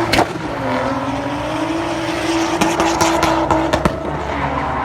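Car engine with a straight-pipe exhaust revved and held at high revs, with a cluster of sharp exhaust pops and crackles about three seconds in, then the revs falling away near the end.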